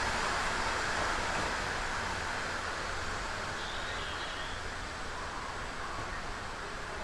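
Rushing noise of a passing vehicle fading slowly as it moves away.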